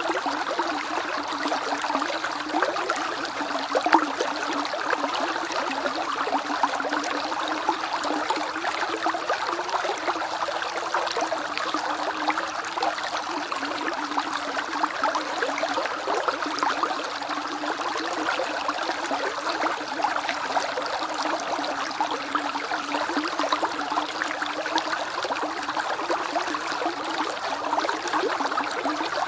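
Small creek bubbling and burbling steadily over stones, a continuous dense patter of small splashes and gurgles with one slightly louder splash about four seconds in.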